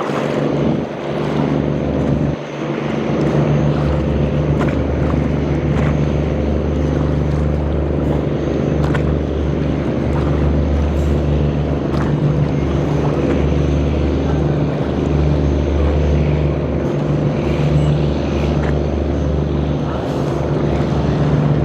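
A boat engine running steadily with a deep, even hum, over a wash of water and wind noise.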